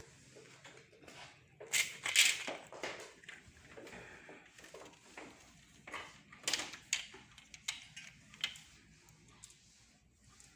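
Irregular knocks and clatter of things being handled, the loudest cluster about two seconds in and another about six and a half seconds in.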